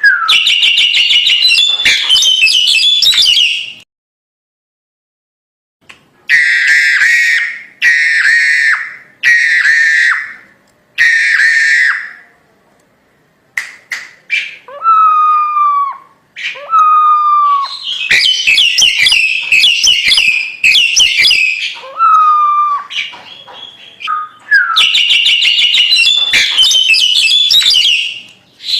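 Crested myna singing loudly and non-stop: bursts of dense, harsh chattering, a run of four shorter phrases, and clear whistles that slide downward, with a short silence about four seconds in.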